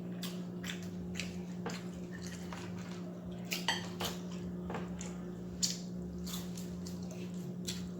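Close-mic chewing of crispy fried food, with irregular sharp crunches over a steady low hum.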